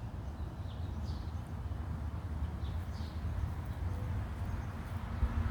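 Steady low rumble with faint, short, high chirps repeating about once a second.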